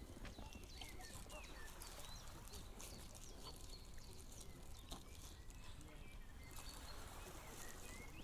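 Faint outdoor ambience: scattered short bird chirps over a low, steady background rumble, with light clicks throughout.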